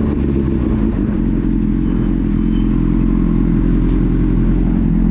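A vehicle engine running steadily at a low, even drone, with no revving.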